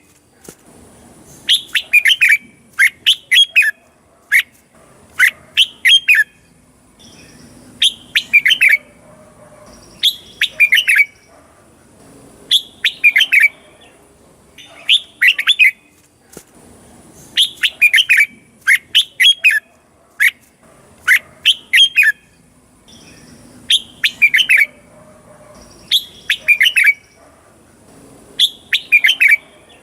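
Red-whiskered bulbul singing: short, quick whistled phrases of a few notes each, repeated every two to three seconds.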